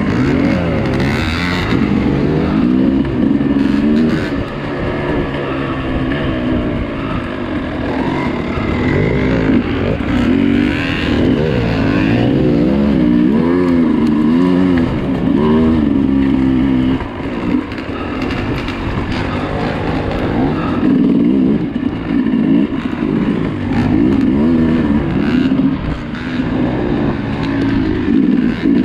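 Dirt bike engine ridden off-road, revving up and down continuously as the throttle is worked on and off, with a brief drop in revs about seventeen seconds in.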